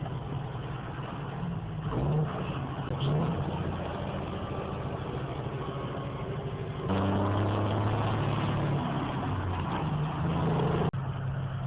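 Semi truck's diesel engine running under road noise, heard from inside the cab. The engine's pitch shifts a few times, and the sound steps up suddenly about seven seconds in.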